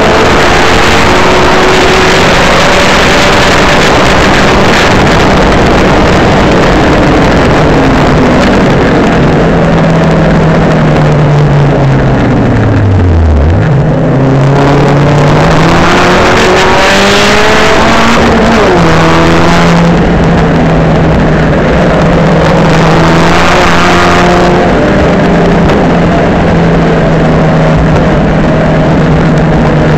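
Loud engine of a tuned Saab 9-3 Sport race car, a turbocharged B207 four-cylinder, driven hard on track. The revs sink steadily to a low point about 13 seconds in, then climb sharply again and run high with small shifts for the rest.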